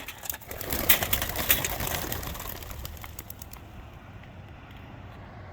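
A flock of young racing pigeons taking off together on release, a dense clatter of wingbeats that fades away over about three and a half seconds, leaving faint steady background noise.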